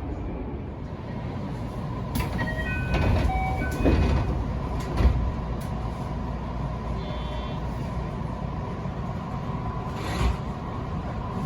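Electric train running with a steady low rumble. A handful of sharp clacks come from the wheels crossing track joints, and a few brief tones sound in the first half.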